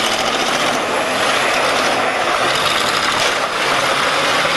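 Demolition derby cars' engines running hard together in a loud, continuous din.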